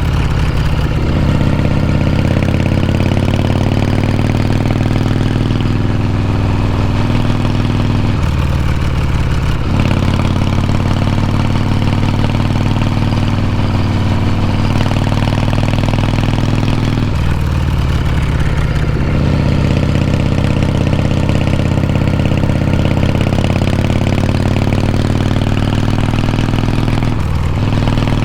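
Harley-Davidson Shovelhead V-twin exhaust under way, the engine note climbing gently as the bike pulls through each gear. The sound dips and drops in pitch at each shift, about every eight or nine seconds.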